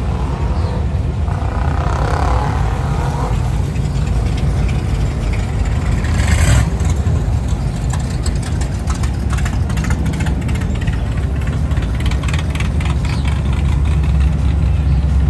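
Car engines running with a steady low rumble, with a short louder burst about six and a half seconds in.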